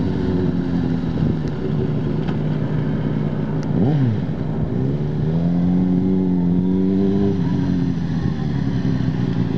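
Motorcycle engine running and revving, its pitch rising and falling with the throttle, with a sharp dip and recovery about four seconds in and a long rise after it. The engine keeps running while the remote engine-kill button is held: the alarm's kill function has not cut it.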